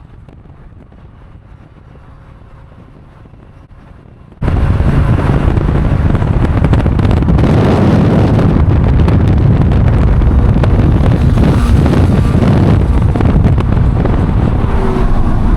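Car engine and exhaust running loud, heavy in the low end, with wind on the microphone. A quieter rumble for about four seconds is cut off by a sudden jump to the loud engine sound.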